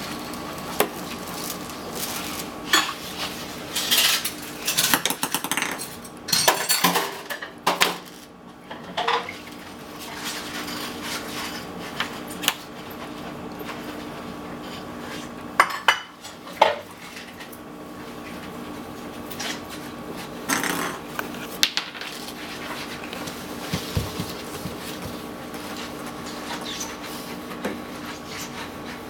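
Fridge magnets being handled, clicking and clattering against a hard surface and each other in irregular clusters of sharp clicks. A steady low hum runs underneath.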